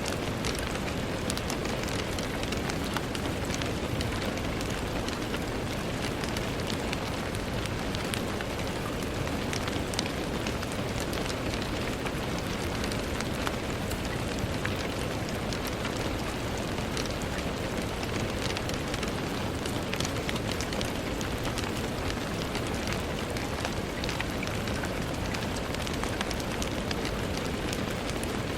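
Steady rain on a window pane: an even hiss with many small, sharp drop ticks scattered throughout.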